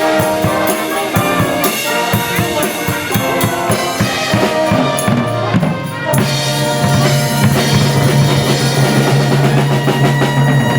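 Band music with a drum kit playing a steady beat over pitched instruments; about six seconds in, a held low chord comes in under the drums.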